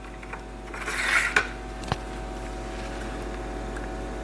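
Meter probe tips scraping on a laptop motherboard's connector pins during a continuity check: a short scrape about a second in, then a sharp click, over a faint steady hum.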